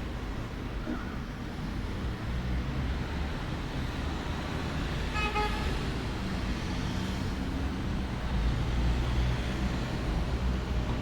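Steady low rumble of road traffic, with one short vehicle-horn toot about five seconds in.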